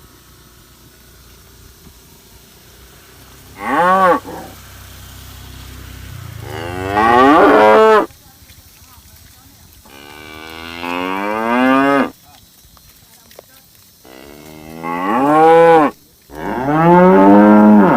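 Cattle mooing: five calls, one short one about four seconds in and four longer ones of about two seconds each, most rising in pitch as they go.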